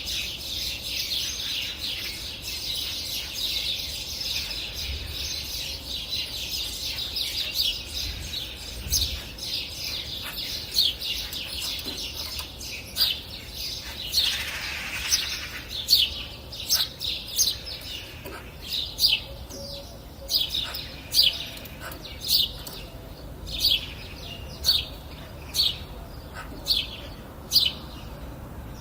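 Songbirds chirping: a dense chorus of high chirps in the first half, then one bird repeating a short, loud, falling chirp a little under twice a second.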